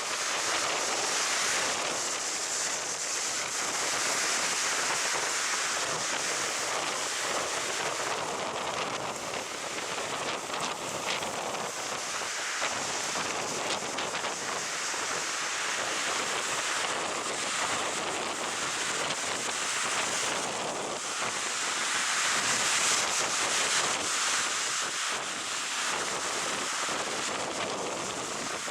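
Strong wind buffeting the microphone over the noise of stormy sea surf breaking on a sandy beach, swelling and easing, loudest a little after twenty seconds in.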